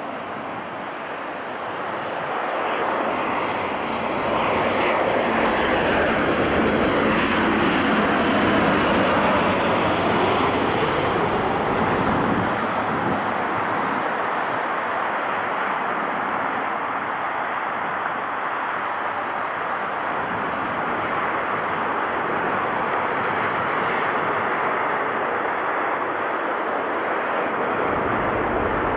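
Airliner's engines passing close by: the sound swells over the first few seconds, peaks with a high whine that falls in pitch, then stays loud and steady.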